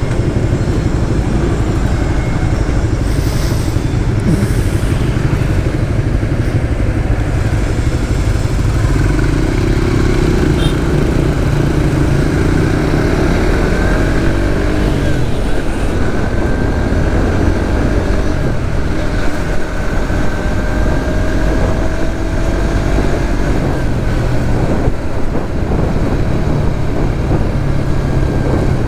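Suzuki GSX-S150's single-cylinder engine running under way in traffic, heard through heavy wind noise on the microphone, with a faint rising whine about halfway through.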